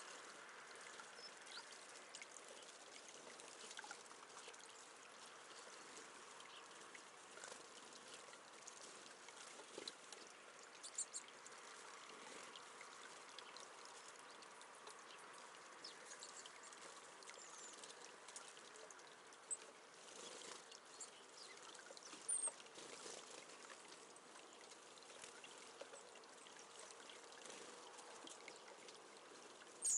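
Faint steady trickle of water at a bird bath, with a few brief splashes and high chirps from tits bathing.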